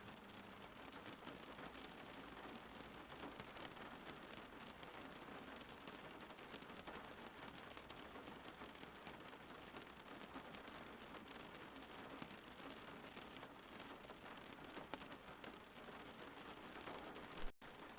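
Steady, faint rain falling outside, an even hiss of drops. Near the end a sharp click is followed by a split-second dropout.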